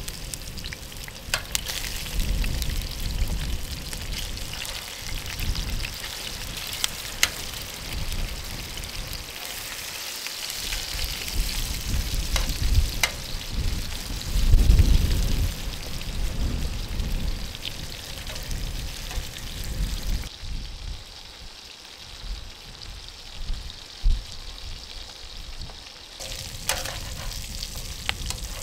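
Lamb chops and diced potatoes sizzling in oil in a frying pan on a camp stove, a steady hiss with scattered sharp clicks of metal tongs against the pan. An irregular low rumble runs underneath, loudest about halfway through.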